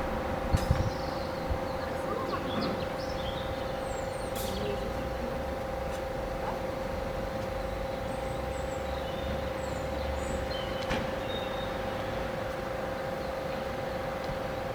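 Steady background ambience: a constant mid-pitched hum over a noise bed with low rumble, dotted with a few faint high chirps and light clicks.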